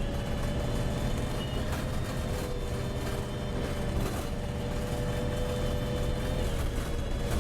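Wright Pulsar single-deck bus heard from on board while under way: a steady low engine rumble with a constant whine above it that dips slightly near the end.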